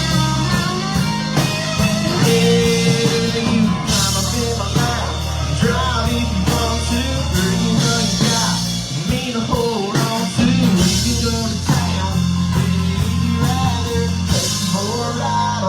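A country rock song played on electric guitar, bass and drums, with a male voice singing over it.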